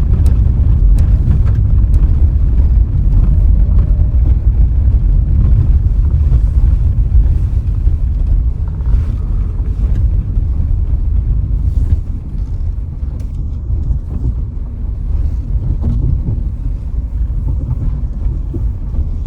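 Road and wind noise from a moving car: a loud, steady low rumble that eases a little about twelve seconds in.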